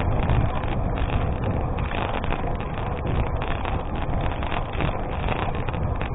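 Wind buffeting the microphone of a moving gravel bike, over a steady crackle and rattle of tyres rolling on a gravel road.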